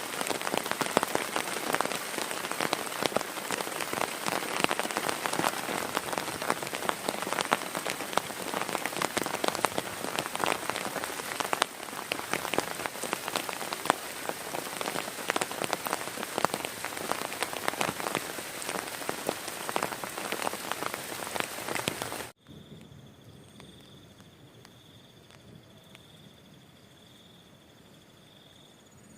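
Heavy rain falling, with many sharp close drop hits. About 22 seconds in, the rain cuts off suddenly and a much quieter background follows, with a faint high trill.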